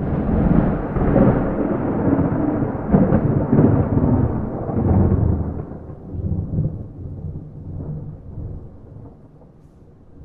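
Thunder with no rain: a clap that breaks suddenly out of silence, then several seconds of loud rolling rumble with a few sharper cracks, fading slowly over the last few seconds.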